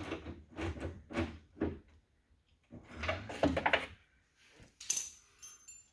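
Hand work inside a car door shell: irregular knocks and rattles of tools and parts against the sheet metal, then a sharp metallic clink with a brief high ring near the end.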